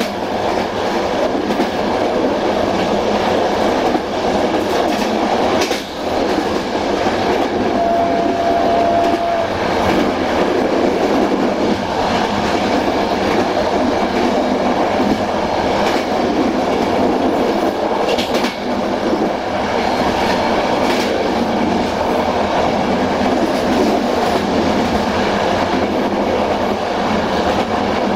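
Passenger train rolling along the track at steady speed, heard from on board, with wheels clicking over rail joints. A brief steady whine sounds about eight seconds in.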